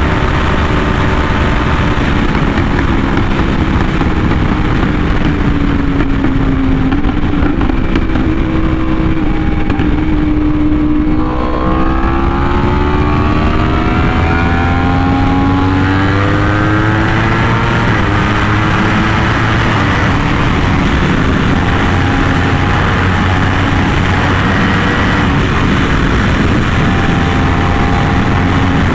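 Yamaha R1M's crossplane inline-four through an SC Project exhaust, ridden on the road. The engine note falls as the bike slows over the first ten seconds or so. About eleven seconds in the throttle opens and the pitch climbs for several seconds under acceleration, then levels off into a steady cruise.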